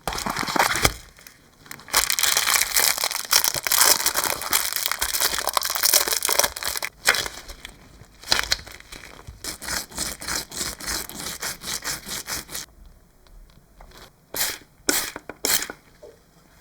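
Rough scraping strokes, dense and continuous at first, then settling into about two strokes a second, and ending with a few sharp clicks.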